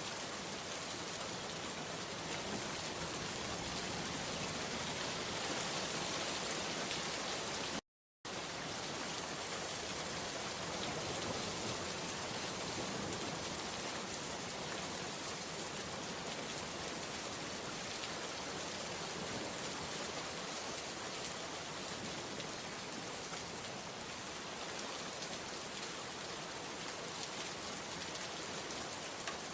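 Steady, dense rainfall, an even hiss made of many fine drops. About eight seconds in, the sound cuts out to complete silence for a fraction of a second, then resumes as before.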